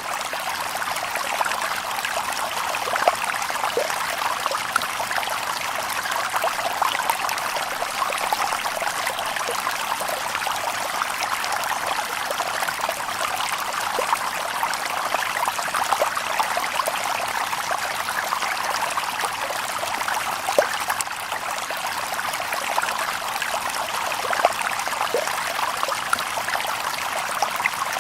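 Stream water babbling over stones: a steady rush with small, scattered splashes and plinks throughout.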